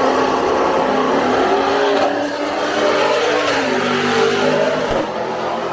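Drag racing car engines running hard at high revs on the strip, their pitch rising and falling through the run, with tyre noise in the middle.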